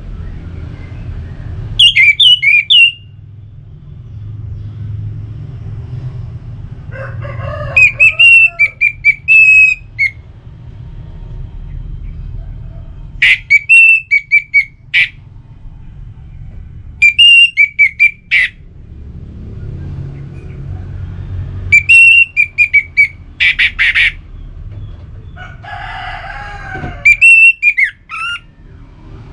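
Orange-headed thrush singing: six loud phrases of fast, bending whistled notes, each one to three seconds long, a few seconds apart, over a steady low hum.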